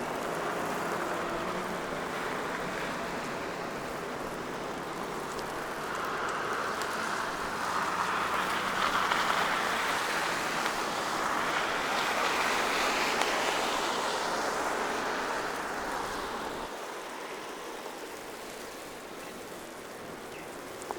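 A vehicle driving past on a wet, snowy street: tyre hiss swells to its loudest in the middle, then fades away about sixteen seconds in.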